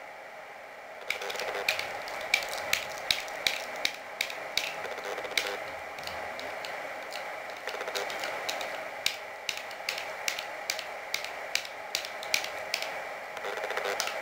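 Marzocchi 888 RCV suspension fork knocking as it is worked, a run of sharp irregular clicks a few times a second over a steady hiss. The knock comes from the rebound valve being fitted upside down.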